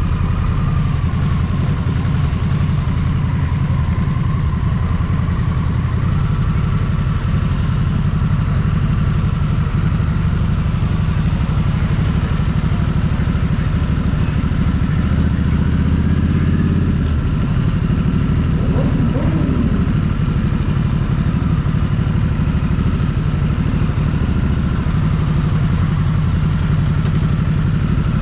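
Motorcycle engine running steadily at low speed, its low note shifting about seventeen seconds in.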